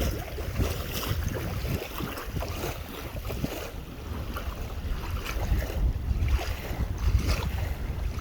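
Wind buffeting the microphone: a gusty low rumble that swells and eases.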